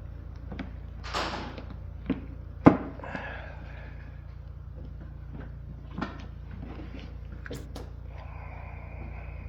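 Hand tools and metal parts being handled on a small two-stroke engine while its spark plug is tightened: scattered clicks and knocks, with one sharp knock a little under three seconds in, over a steady low hum.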